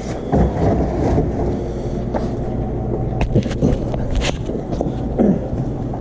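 Steady low machine hum, with a few sharp clicks and short clatters of metal being handled about three to four seconds in.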